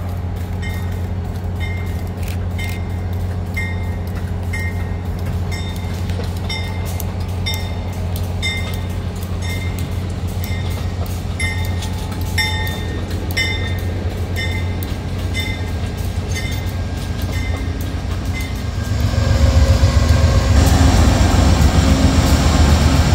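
Amtrak Regional train rolling slowly into a station, its GE P42 diesel locomotive running with a steady low drone and its bell ringing a little faster than once a second. The train grows louder near the end as the locomotive passes close by.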